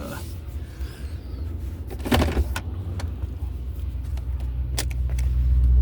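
Truck engine running with a steady low rumble, heard from inside the cab, growing a little louder near the end. A short burst of clicks and rattles comes about two seconds in, and another sharp click near the end.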